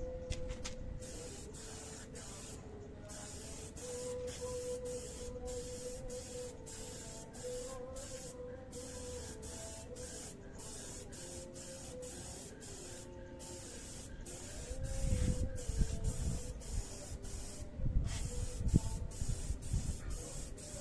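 Clear coat being sprayed onto an engine: a steady spray hiss in long passes, broken now and then by brief pauses as the spray stops and starts. Dull low knocks come in the last few seconds.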